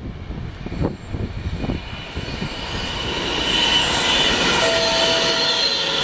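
A train moving in the station, with low rumble and a few knocks, then a high-pitched metallic squeal of several tones that builds from about two seconds in.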